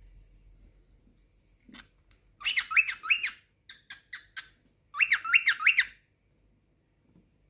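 Cockatiel calling: two quick runs of three sweeping chirps, about two seconds apart, with a few short chips between them.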